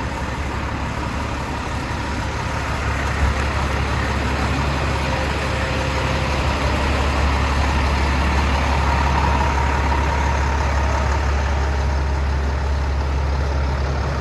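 A motor vehicle running: a steady, loud low rumble with an even rushing noise over it, growing slightly louder a few seconds in.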